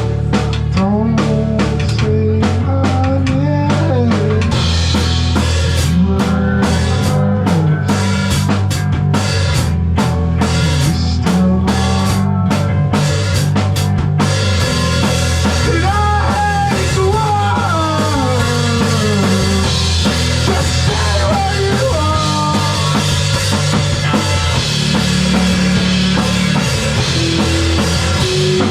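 Live rock band playing a song: drum kit and guitar over a heavy, steady low end. The sound grows fuller and brighter about halfway through.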